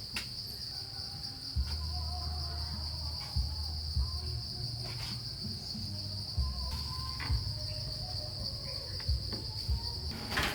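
Steady high-pitched insect chorus, with a few faint knocks and clicks scattered through it; the insect sound stops near the end.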